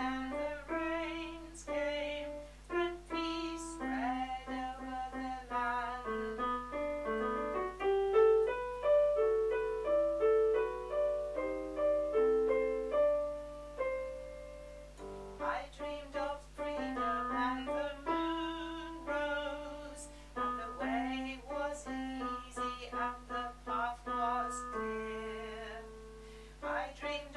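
Piano playing with a woman singing the alto line of a choral song.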